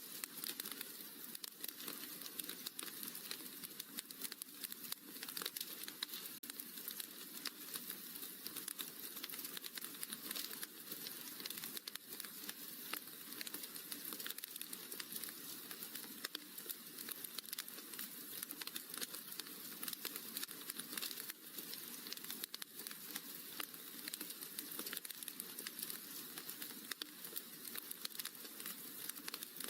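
Wood fire crackling in a fireplace: a dense, steady run of small pops and snaps.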